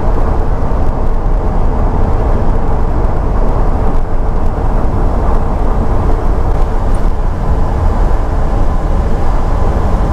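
Truck engine and road noise while driving, a steady drone with no breaks. The engine is labouring up a grade at high elevation, where it runs poorly.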